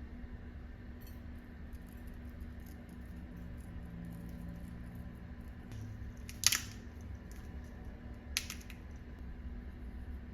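Two sharp clinks of kitchenware, about two seconds apart, with the first louder, over a steady low hum.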